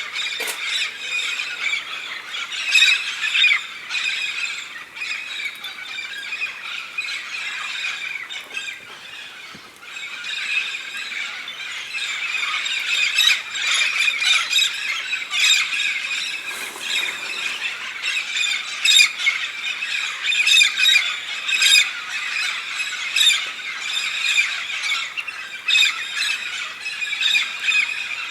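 A large flock of red-spectacled parrots calling all at once: a dense, unbroken racket of harsh squawks and squeals. It thins briefly a third of the way in, then grows fuller again.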